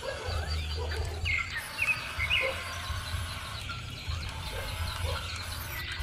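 Birds chirping, with a low rumble that comes and goes in stretches of about a second.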